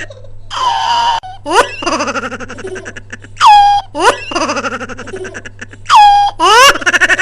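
A young bird giving rapid, stuttering laugh-like calls, broken by a few short whistled notes that drop in pitch and then hold, about three and a half and six seconds in.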